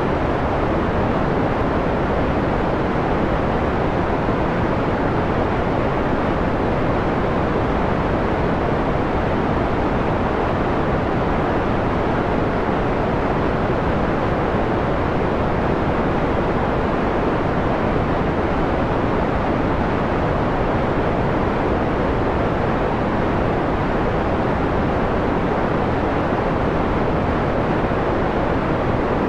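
Steady electronically generated noise, filtered down to a dull, mellow rush with little treble left.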